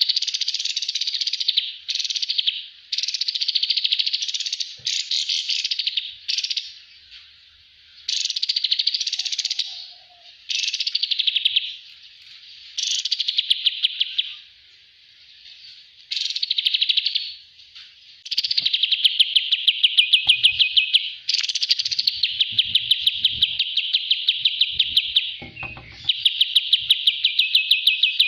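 Song of the small songbird known in Indonesia as kapas tembak, played as a training track for cage birds: fast, high chattering trills in bursts of one to three seconds with short pauses, the later phrases turning into longer, steady rapid rattles.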